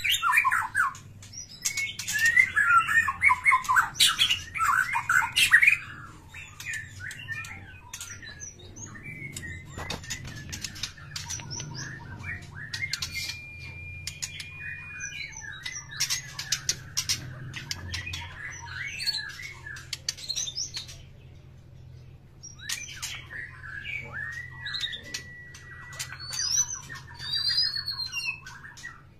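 Small birds chirping and squawking in rapid trills, loudest in the first few seconds and again near the end, with wing flutters and scattered clicks.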